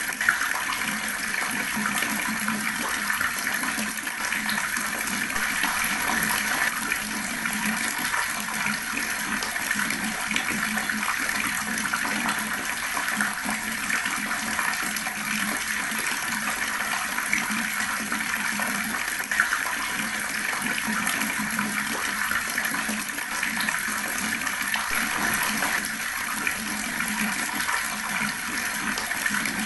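Water running from a tap in a slow, steady stream, splashing continuously.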